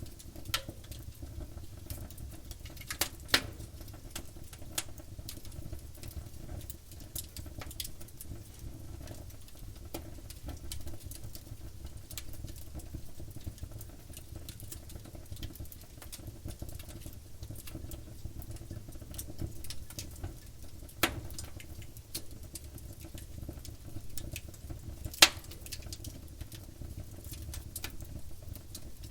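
Firewood burning in a campfire, crackling with a scatter of small ticks and a few sharp pops, the loudest about three seconds in and near the end, over a low steady rumble of the flames.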